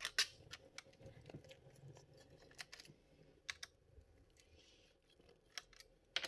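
Scattered light clicks and taps of small tools and plastic as a laptop is handled and its bottom case opened for disassembly; irregular, faint, a little louder at the start and near the end.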